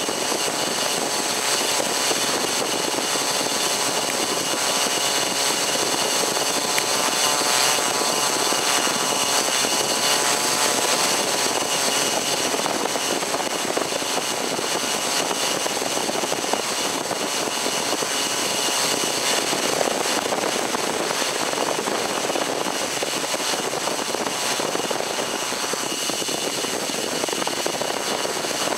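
Electric motors and propellers of a multirotor drone running steadily, a dense whine with several high steady tones, heard from a camera carried on the aircraft.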